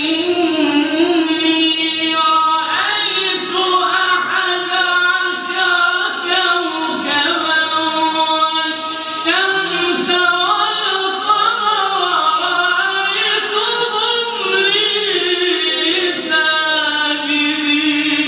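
Melodic Quran recitation (tajweed): a single voice holding long, ornamented notes that glide up and down, with short pauses for breath.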